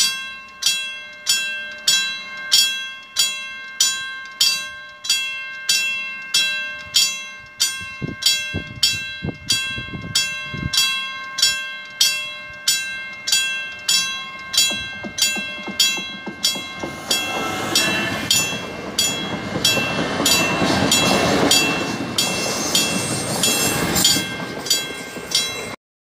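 A level-crossing warning bell ringing about twice a second. From about two-thirds of the way in, a suburban passenger train passes close by, its noise rising over the bell. Both cut off suddenly near the end.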